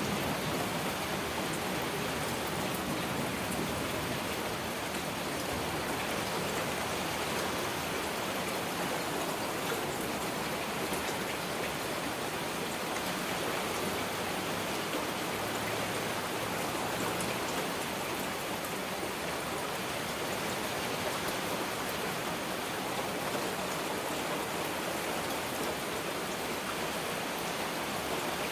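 Heavy rain falling steadily: a dense, even hiss with scattered patter of individual drops.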